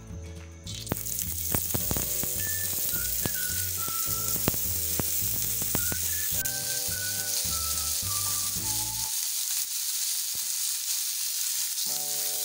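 Hot oil sizzling in a grill pan as boiled chicken salami rolls and slices are laid in. The sizzle starts about a second in, with a few sharp clicks as the pieces are set down. Background music with a melody plays under it and drops out for a few seconds near the end.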